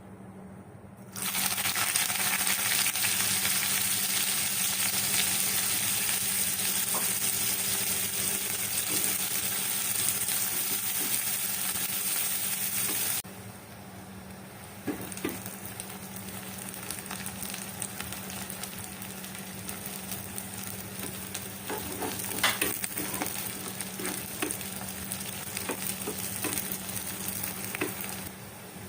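Food sizzling in hot oil in a cooking pot, starting loudly about a second in. About halfway through it drops abruptly to a quieter sizzle, with scattered clinks and scrapes of a spoon stirring in the pot.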